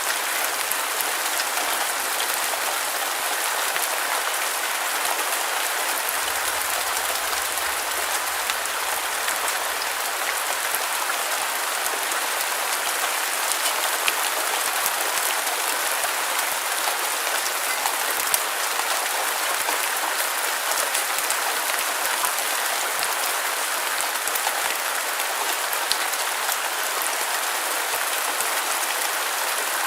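Steady rain falling on a surface, an even hiss with scattered drop ticks, used as white noise.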